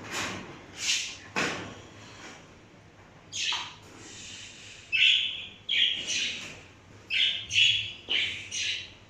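Pet parrots in a cage squawking: a few separate harsh calls at first, then from about halfway a quick run of squawks about two a second.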